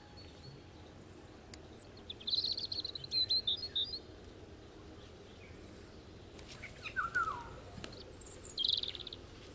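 Birds chirping over quiet outdoor ambience: a run of high chirps about two seconds in, a short falling call near seven seconds, and another burst of chirps near the end.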